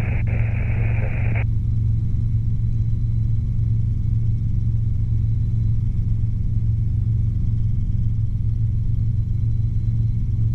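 Robinson R22 helicopter in flight, heard from inside the cabin: a steady low drone of engine and rotor. A burst of radio hiss cuts off about a second and a half in.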